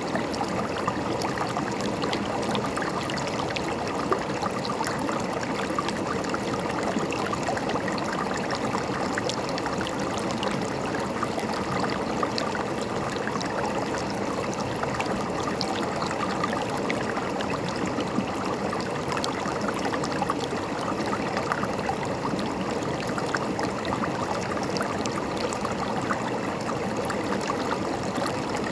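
River water running and gurgling over rocks, a steady rushing with many small splashes and trickles.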